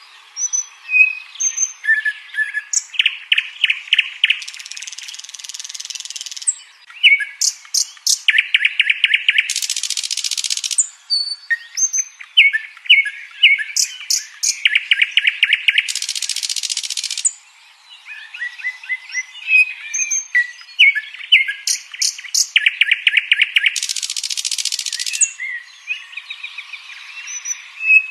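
Nightingale singing: four song phrases, each a fast rapid-fire trill running straight into a harsh buzzing rattle, with short chirps and whistled notes between phrases.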